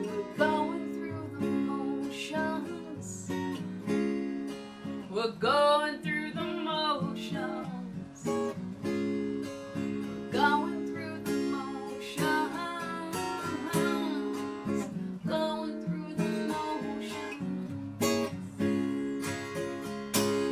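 Acoustic guitar strumming chords through an instrumental passage of the song. A wavering melody line bends in pitch over it a few times.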